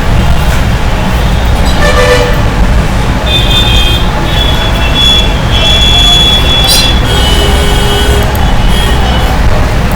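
Loud, steady low rumble, with several thin high tones that come and go in the middle of the stretch.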